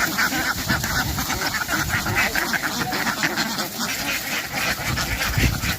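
A large flock of domestic ducks quacking continuously, many calls overlapping into a constant clamour.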